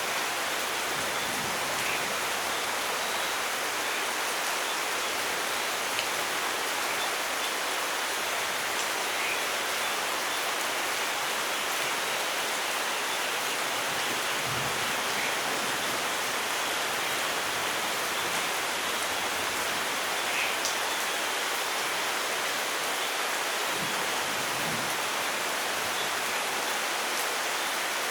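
Steady rain falling, an even hiss of water with a few separate drop splashes standing out now and then.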